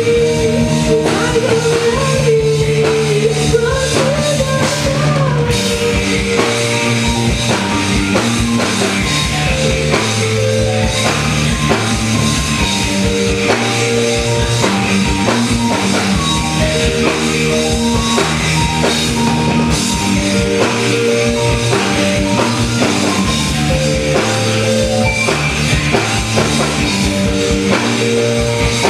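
A rock band playing live: drum kit keeping a steady beat under sustained instrument notes, with a held, wavering note over the first few seconds.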